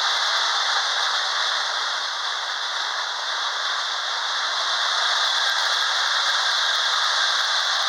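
Lionel toy train running on its track: a steady rolling rattle and whir with no breaks.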